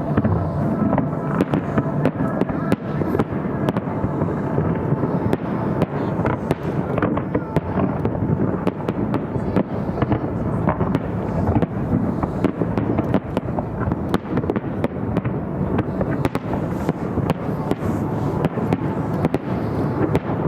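Fireworks going off in quick succession, a dense run of sharp bangs and crackles with no break.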